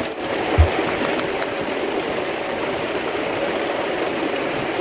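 Steady rushing of running water, with a single short low thump about half a second in.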